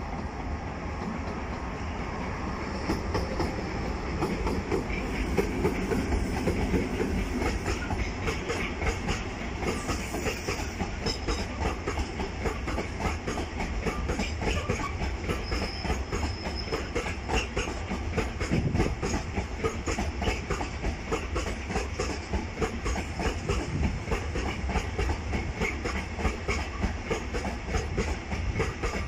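Freight train of open gondola wagons rolling past, its wheels clattering steadily over the rail joints.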